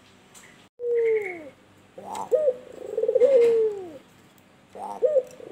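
Albino turtle dove (white puter) cooing: a single falling coo about a second in, then a longer, rolling coo that falls away, and another phrase starting near the end.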